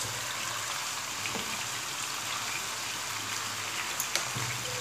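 Chicken seekh kababs shallow-frying in hot oil in a pan: a steady sizzle with scattered small crackles and pops.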